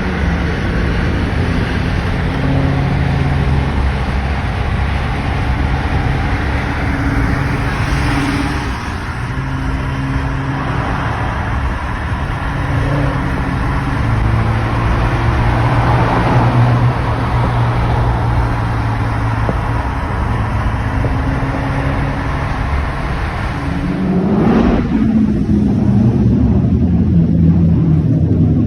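Car engine running under way with road noise, its pitch stepping up and down as the car drives. Near the end an engine revs up sharply as a car accelerates.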